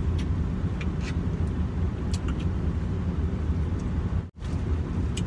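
Steady low rumble of a moving passenger train heard from inside the carriage, with a few light clicks of forks on food containers. The sound cuts out for an instant about four seconds in.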